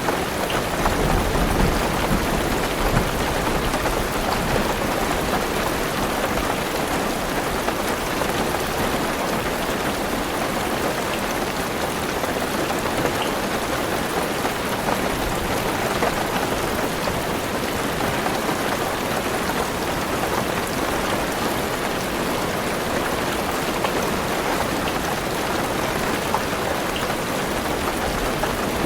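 Heavy rain falling steadily on a car's roof and windows, heard from inside the car, with a low rumble in the first few seconds.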